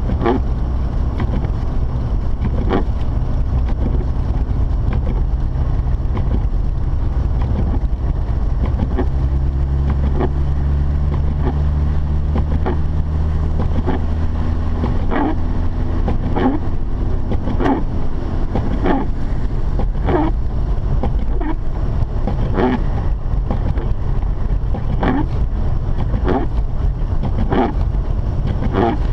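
Mazda RX-8's rotary engine and tyre and road noise heard inside the cabin while driving: a steady low rumble with an engine tone that swells for a few seconds partway through. A short sound repeats about every second and a bit throughout.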